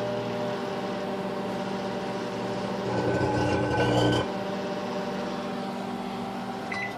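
Microwave oven running with a steady hum. From about three seconds in, for just over a second, a louder crackling buzz comes through as the halved grape sparks into plasma. The hum stops just before the end.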